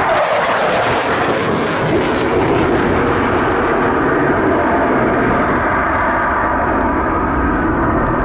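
Eurofighter Typhoon's twin EJ200 turbofan jet engines, loud, as the fighter passes. The pitch falls at the start, and the high hiss fades after about two seconds into a steady jet rumble.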